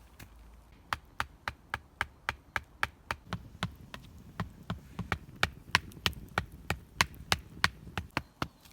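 A fast, even series of sharp knocks, about three a second, starting about a second in, with a dull thud under many of them in the middle stretch.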